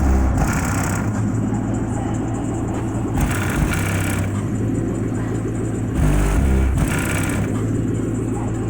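Car stereo with two 15-inch subwoofers playing a hip-hop track loudly, heavy sustained bass notes that shift in pitch, with a hiss-like hi-hat or synth layer coming and going every few seconds.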